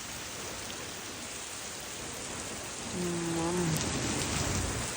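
Heavy downpour of rain, a steady hiss of rain falling on surfaces. About three seconds in a brief steady tone with overtones sounds for under a second.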